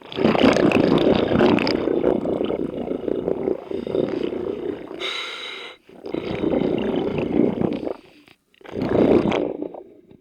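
Scuba diver breathing underwater: exhaled bubbles rumble out of the regulator in long bursts with short gaps between them, and a short hiss comes about five seconds in.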